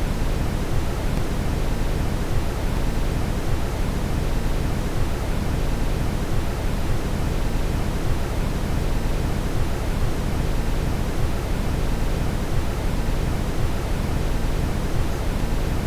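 Steady brown noise: an even, deep rushing hiss, strongest in the low end and fading toward the highs, with no change.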